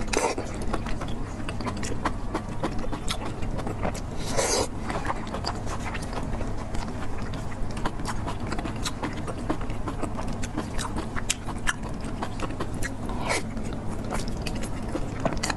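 Close-up chewing of braised cow intestine: wet mouth sounds with many small smacking clicks and a few louder wet bursts.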